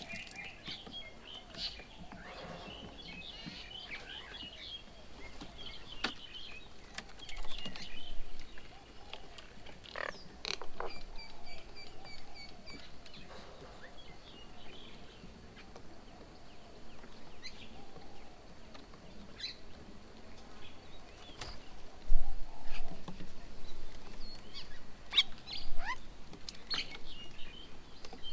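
Birds at a feeding table calling and chirping on and off, with short scattered calls and one quick run of evenly repeated notes. A few sharp knocks break in, the loudest about two-thirds of the way through.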